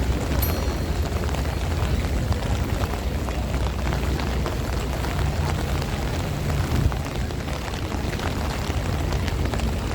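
Strong wind buffeting the microphone as a steady low rumble, with heavy rain falling as many small sharp ticks over it.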